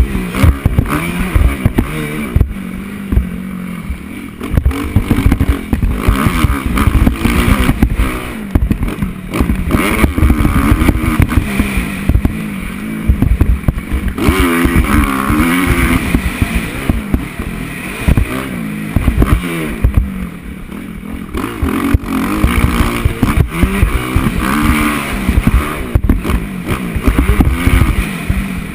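Motocross bike engine revving hard and falling off again and again as it is ridden round a dirt track, with heavy wind rumble and knocks on a bike- or helmet-mounted camera microphone.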